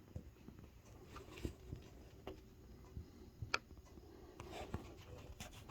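Quiet indoor room tone with a few faint, scattered clicks and taps.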